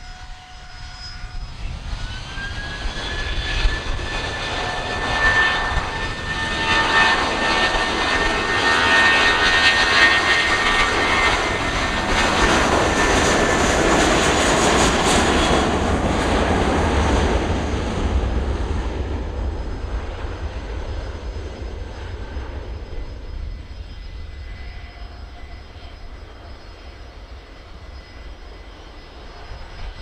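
jetBlue Airbus A320's twin jet engines spooling up and taking off: a whine rises in pitch over the first few seconds as they reach takeoff power, then the jet roar swells, loudest around ten to fifteen seconds in, and fades away over the last ten seconds.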